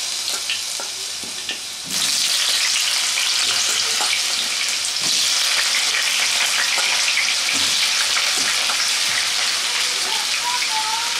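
Chunks of parboiled elephant foot yam sizzling and crackling as they fry in hot oil, the sizzle stepping up louder about two seconds in.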